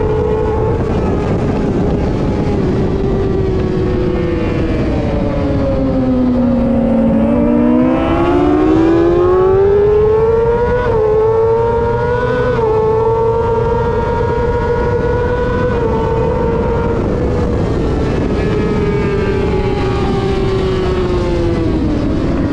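Superbike engine at racing speed, heard from onboard. Its note falls as the bike slows for a corner, then climbs back up through two quick gear changes and holds high before easing off again near the end.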